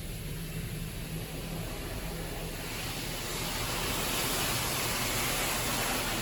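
Automatic car wash running over a car: a steady low hum, then from about three seconds in a loud rushing hiss rises and holds.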